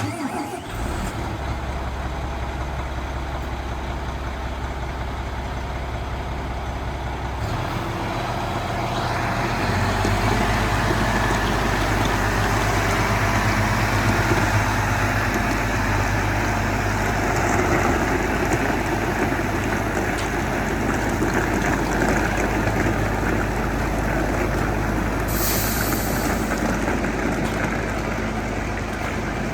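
Fendt 1050 Vario tractor's diesel engine running, picking up speed and getting louder about eight seconds in, then holding steady. A short hiss of air comes about 25 seconds in.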